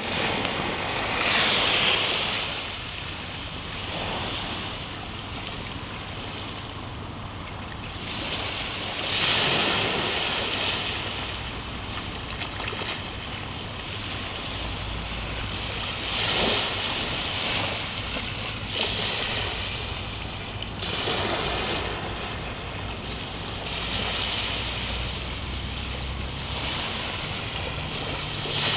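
Ocean waves breaking and washing up on a shore. The surf swells and falls back about six times, every few seconds.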